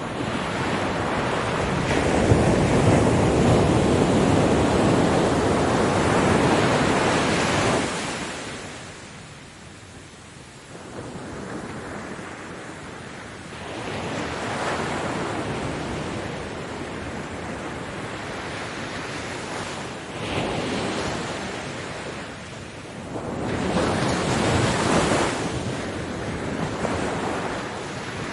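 Ocean waves breaking on a beach. One large wave washes in and lasts about eight seconds, then, after a lull, smaller waves come in at intervals of several seconds.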